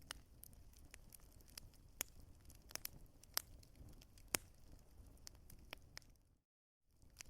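Wood fire crackling, with irregular sharp pops and snaps over a low rumble of burning. About six seconds in the sound cuts out completely for half a second, then the crackling resumes.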